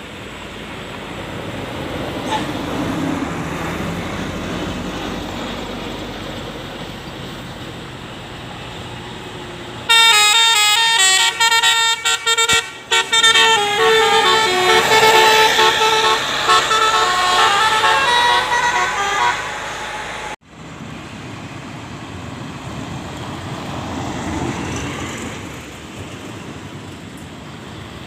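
Passing road vehicles, then about ten seconds in a multi-tone telolet bus horn plays a tune of short stepped notes for about ten seconds before breaking off abruptly. Vehicle noise goes on afterwards.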